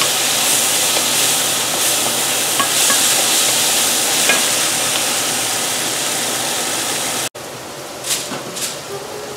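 Diced onions, tomatoes and green onions sizzling in a hot wok as they are stirred with a wooden spatula: a steady frying hiss. About seven seconds in it cuts off abruptly, followed by two short crinkles of aluminum foil being smoothed by hand.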